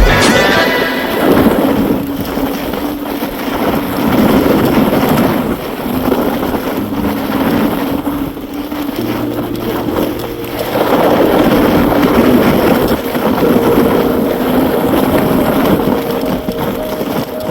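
Wind rushing over the microphone with road noise from a moving electric bike, steady with some rise and fall in loudness.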